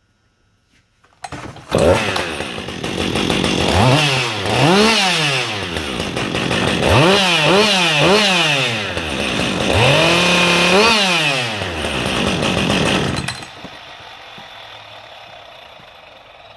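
Stock Husqvarna 562 XP two-stroke chainsaw on its stock muffler, starting about a second in and then revved up and down in three groups of throttle blips, the last held high. About 13 seconds in, the sound drops sharply to a much quieter level.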